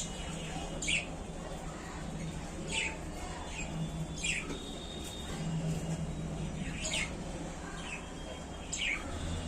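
Budgerigars calling in short, sharp chirps that drop in pitch, about six through the stretch, one or two seconds apart, over a steady low hum.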